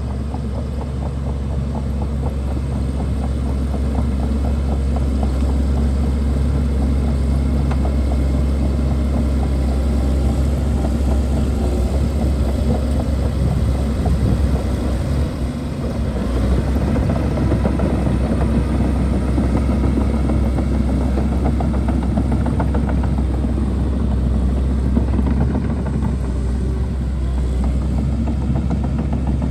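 Shantui DH17C2 bulldozer's diesel engine running steadily, with a brief dip about halfway through.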